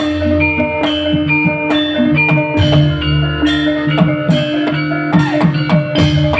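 Live band music without vocals: quick plucked melody notes over a held note and bass, with drums keeping a steady beat.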